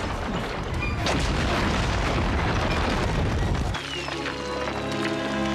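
Stone breaking and crumbling sound effect: a dense, heavy rumble of falling rubble with a sharp crack about a second in. About four seconds in, sustained music chords come in under a fading rumble.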